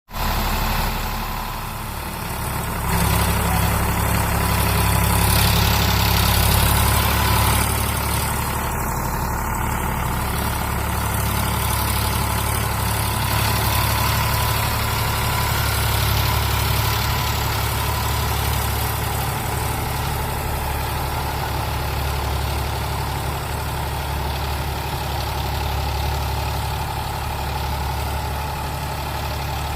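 Sonalika DI 42 RX tractor's diesel engine running steadily, growing louder about three seconds in.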